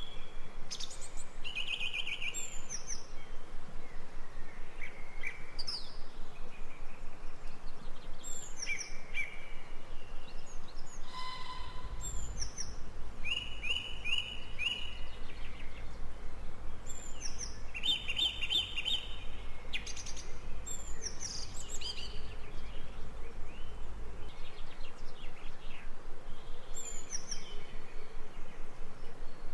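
Several birds singing and chirping in short repeated phrases and trills over a steady background hiss. A low rumble comes in about twelve seconds in and fades out about twelve seconds later.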